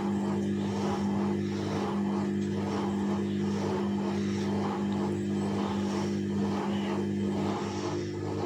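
Bauknecht WAS 1400 washing machine running: a steady electric hum with a rhythmic swishing that comes and goes about twice a second.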